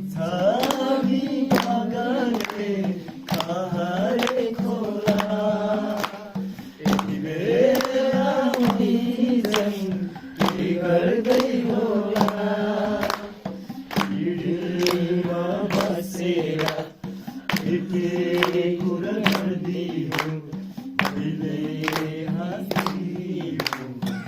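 Voices singing a slow song together over a steady low held tone, with sharp strokes about twice a second keeping the beat.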